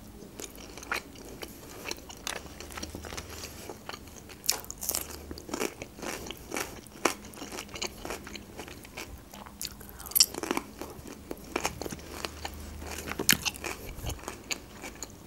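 Close-miked mouth sounds of a person chewing chicken doner meat, with irregular wet clicks and smacks.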